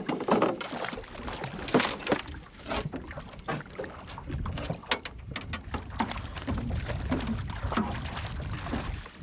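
Irregular knocks, rattles and splashes in a small fishing boat as a hooked fish is brought into the landing net, with wind rumbling on the microphone from about halfway through.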